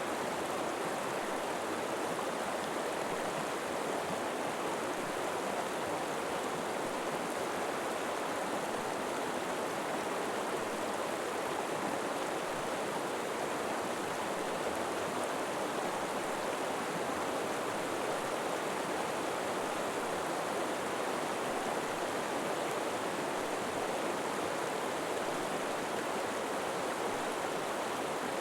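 River water flowing steadily over rocks, an even rushing with no let-up.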